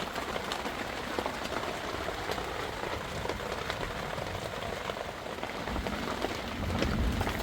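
Heavy rain falling, with many sharp individual drop hits close by. A low rumble builds near the end.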